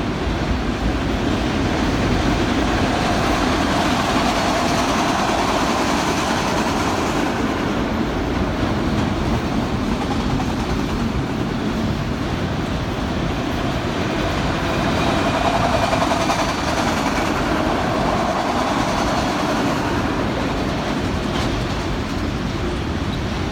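Union Pacific train rolling past on the rails: a steady, loud rumble of wheels and cars.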